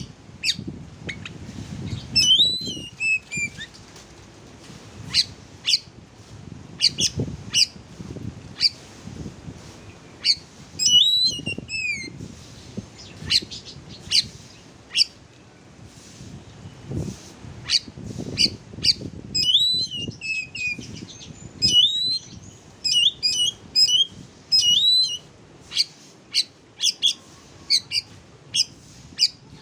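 Oriental magpie-robin (kacer) song: a string of sharp chip notes broken by loud, swooping whistled phrases, which come thickest in the last third.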